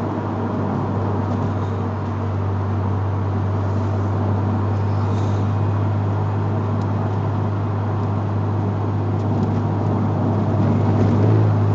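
A car running steadily: a constant low engine drone under an even hiss, with no revving, and the drone swelling slightly near the end.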